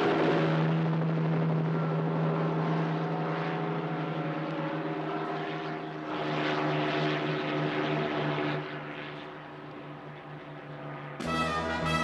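Propeller aircraft engines droning steadily. The drone starts to pulse a little past the middle, then fades. Brass music starts suddenly about a second before the end.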